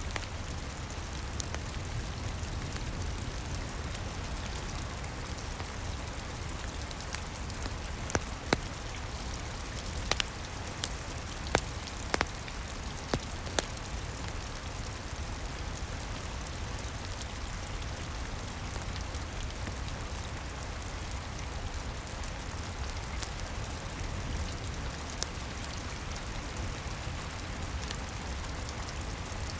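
Steady rain mixed with a crackling fireplace: a constant hiss over a low rumble, with scattered sharp pops of the fire, most of them in the middle stretch.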